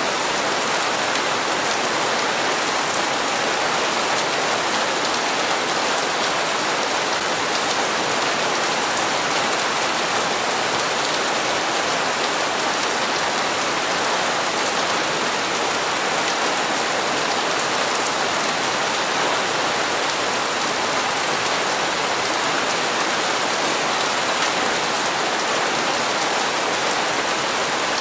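Steady heavy rain falling on hard surfaces, an even hiss of many drops with no change in strength.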